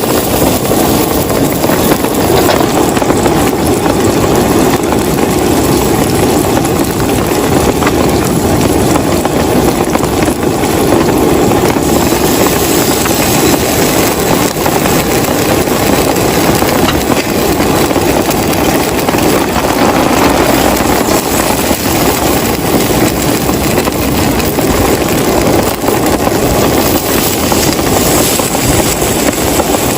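Heavy rain falling steadily in a downpour, a dense unbroken patter with no let-up.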